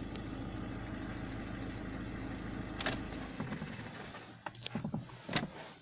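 2008 Ford C-Max 1.6 engine idling steadily. After a sharp click nearly three seconds in, it is switched off and stops. A few light clicks and knocks follow.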